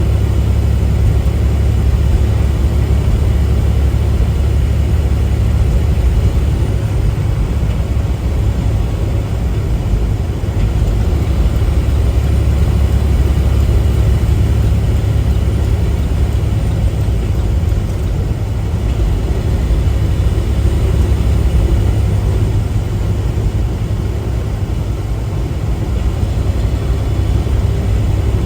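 Steady low drone of a semi-truck's engine and road noise, heard inside the cab while driving.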